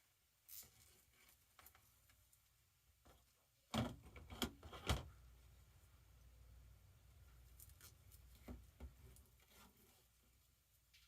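Hand-handling of deco mesh and zip ties: soft rustles and a few sharp clicks and snaps, the loudest cluster of three or four about four seconds in, then a few more near the end.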